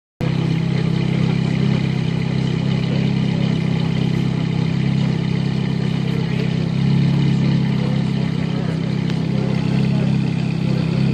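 Ferrari F430 Scuderia 16M's flat-plane V8 exhaust running steadily at low idle while the car is being parked, swelling a little about seven seconds in.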